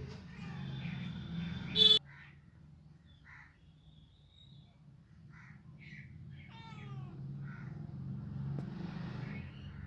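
A cat meowing several times: a loud, high call about two seconds in that cuts off suddenly, then fainter short meows, one of them falling in pitch around seven seconds in.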